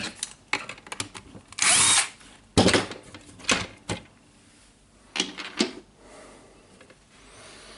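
Short bursts of a power screwdriver, with clicks and knocks of plastic tool housing parts being handled: undoing screws to open a jigsaw's housing.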